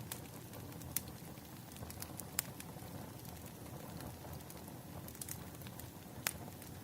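Wood fire crackling: a low steady rumble with sharp pops scattered through it, the loudest about two and a half seconds in.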